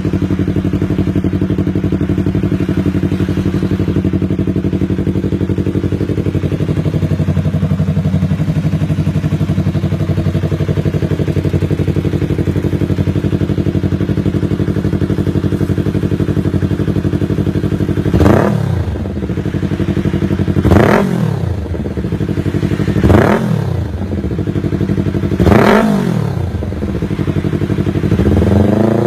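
Yamaha R3's 321 cc parallel-twin engine breathing through a titanium full-system exhaust, idling steadily, then blipped four times at about two-and-a-half-second intervals, each rev rising and dropping quickly back to idle. Near the end it starts another rising rev.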